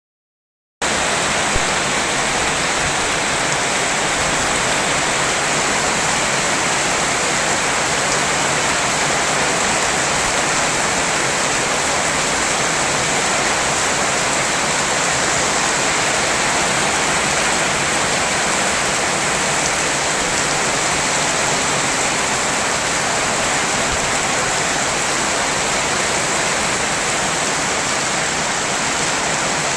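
Heavy rain pouring down in a steady, dense hiss, starting about a second in.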